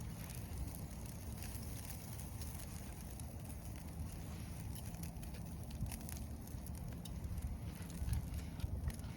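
Low, steady rumble of wind on the microphone, gusting a little near the end, with faint scattered crackles from a wood campfire.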